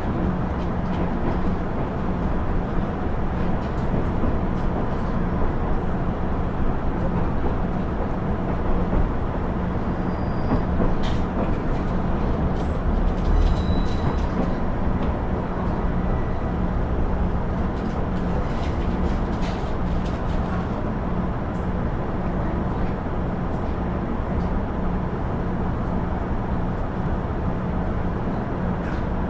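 Interior running sound of a KiHa 112 diesel railcar (KiHa 110 series) under way: a steady diesel engine drone with wheel and rail noise.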